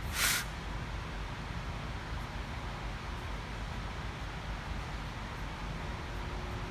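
Steady background hiss and hum, with one brief scratching stroke near the start: a marking tool drawn across sheet metal as a pattern line is traced.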